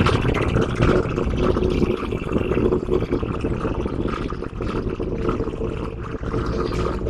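General Electric diesel-electric locomotive engine idling: a steady low rumble with a constant hum.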